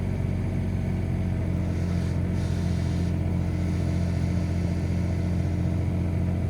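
Komatsu PC16 mini excavator's diesel engine running steadily while the bucket is worked, with a brief hiss about two seconds in.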